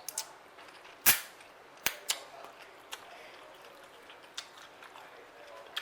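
Close-up eating sounds: a scatter of short, sharp clicks and smacks, about seven in all, the loudest a little over a second in.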